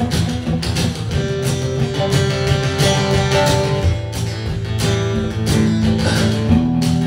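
Acoustic guitar strumming chords in the instrumental intro of a live song, with sustained notes ringing over the strums.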